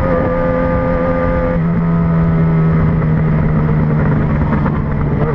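Yamaha XJ6N motorcycle's 600 cc inline-four engine running at steady moderate revs while riding in traffic, its pitch easing down slightly about a second and a half in.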